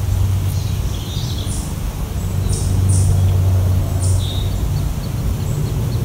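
Birds calling in short, high notes about once a second, with a couple of lower chirps, over a louder steady low engine-like hum.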